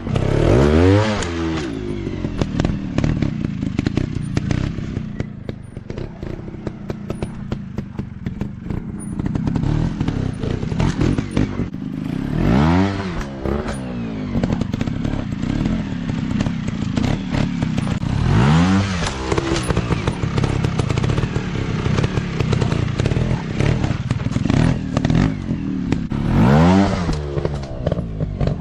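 Off-road dirt bike engines running and revving hard, with sharp rises and falls in pitch about a second in, then near 13, 19 and 27 seconds, over a steady rough engine clatter. The engines ease off for a few seconds around the middle before picking up again.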